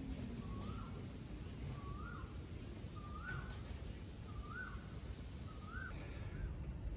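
A bird calling one short note that rises in pitch, repeated six times at an even pace of about one call every second and a quarter, over a steady low background rumble.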